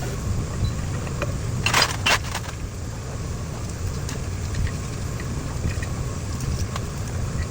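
A steady low engine rumble, with a brief burst of metallic clinking about two seconds in.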